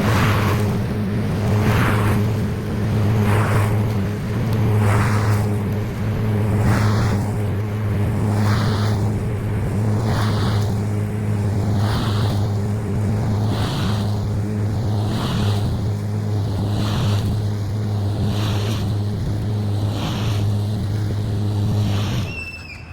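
Gas push mower engine running steadily while cutting wet grass, with a swishing rise and fall about every second and a half as it is pushed back and forth; the engine cuts off near the end.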